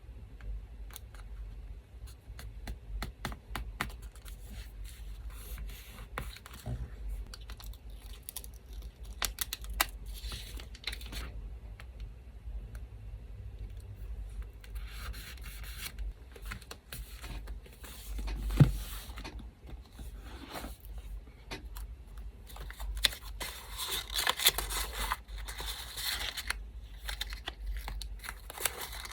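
Close-up paper crafting sounds: small pieces of paper being handled, torn and snipped with scissors, as a run of small clicks and crackles, with a denser stretch of tearing and rustling near the end. A single sharper knock comes about two-thirds of the way through, and the low steady hum of an electric fan runs underneath.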